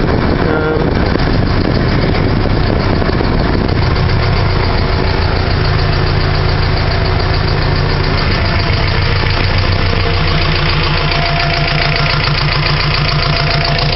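Subaru EJ22 flat-four engine idling steadily at running temperature. Its note shifts slightly about four seconds in.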